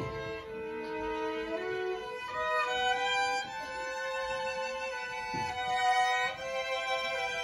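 Violin trio playing a slow melody in harmony, several held notes sounding together and moving in steps.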